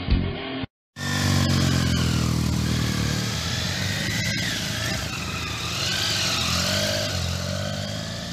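Intro music cuts off just under a second in, then a motor vehicle's engine runs loud and steady, its pitch falling over the first couple of seconds.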